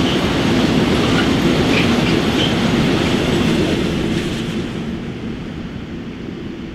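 Freight train of open gondola wagons running over the crossing, wheels rumbling and clattering on the rails, with a few short high squeals. The noise fades after about four seconds as the last wagon passes and the train moves away.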